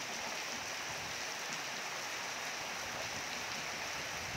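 Steady rain falling on clay-tiled roofs and a wet paved yard: an even hiss.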